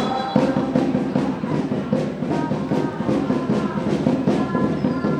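Brass instruments and drums playing a tune over a steady beat.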